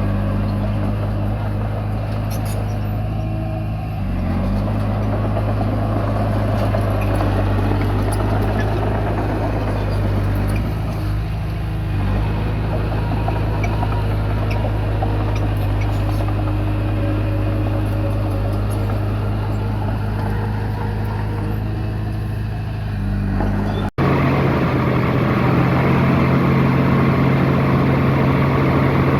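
Komatsu D20P crawler bulldozer's diesel engine running steadily while it works, its note shifting slightly now and then. A sudden cut about three-quarters of the way through, after which the engine note is a little different.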